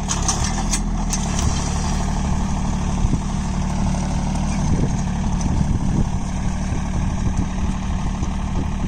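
John Deere 3028EN mini tractor's 28 hp diesel engine running steadily.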